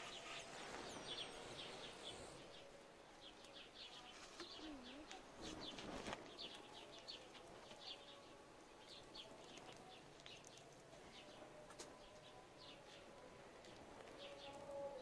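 Small birds chirping faintly in short, quickly repeated notes, with a single soft knock about six seconds in.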